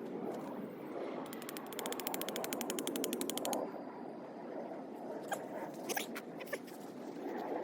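A small mechanism clicking fast and evenly, about eleven clicks a second, for a little over two seconds, like a ratchet being worked; then a few separate sharp clicks and knocks, over a steady outdoor hiss.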